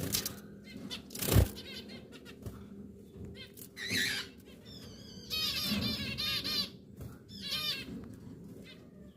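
Zebra finches calling at the nest: a single call about four seconds in, then runs of quick repeated high chirps. Two knocks in the first second and a half are the loudest sounds.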